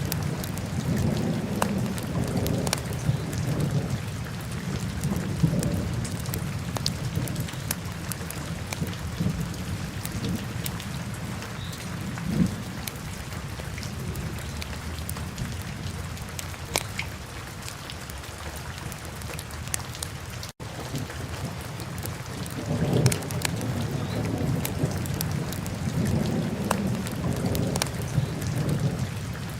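Wood fire burning in a fireplace: a low, uneven rumble of flames with frequent sharp crackles and pops. The sound cuts out for an instant about two-thirds of the way through.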